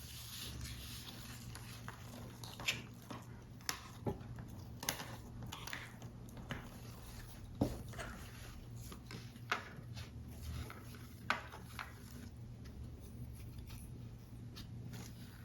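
Paper model parts being handled and assembled: scattered small clicks, taps and rustles of card, over a steady low hum.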